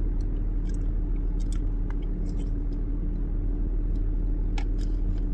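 Steady low hum of a car idling, heard from inside the cabin, with a few light clicks from eating with a plastic fork out of a cardboard meal box.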